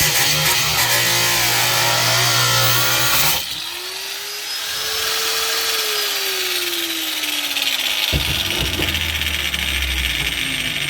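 Power grinder working the sheet metal of a truck floor pan, loud and rough with its pitch wavering under load. About three seconds in it comes off the metal and winds down with a single falling whine. A click and a low steady hum follow near the end.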